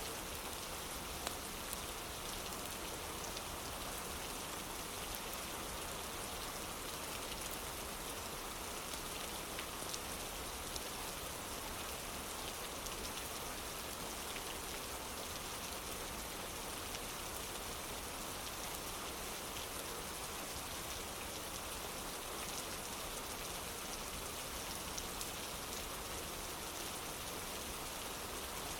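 Steady rain falling, with many small sharp drop ticks scattered through the even hiss.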